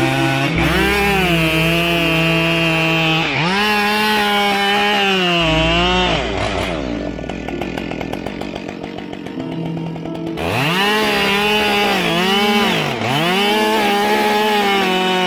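Two-stroke chainsaw at full throttle cutting wood, its pitch repeatedly dipping and recovering as the chain loads in the cut. It eases off for a few seconds in the middle, then revs up at about ten seconds in and cuts on.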